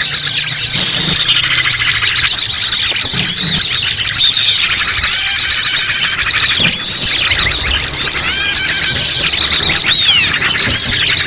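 Dense, unbroken chorus of many small birds chirping, trilling and whistling over one another. It is a bird-trapping lure recording (pikat) meant to draw wild birds in.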